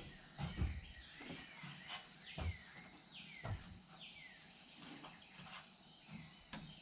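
Birds calling outdoors: a series of short, downward-sliding chirps, with a few faint thuds.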